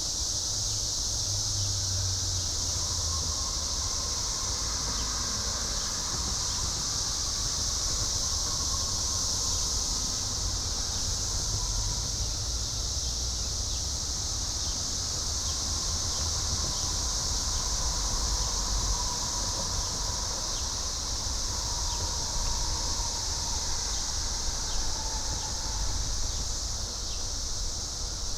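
Dense chorus of cicadas, a steady high-pitched shrill that never lets up, with a steady low rumble underneath.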